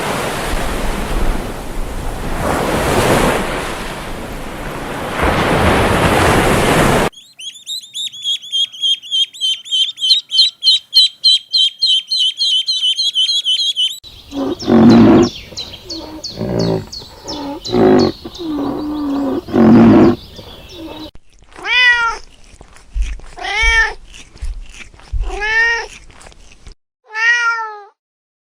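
A run of separate animal calls: a harsh noisy stretch, then a fast high chirping trill, then a string of short low calls, and finally a cat meowing five times.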